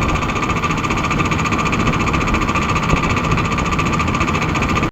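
A loud, steady mechanical running noise with a fine, rapid rattle, unchanging throughout, cutting off abruptly at the end.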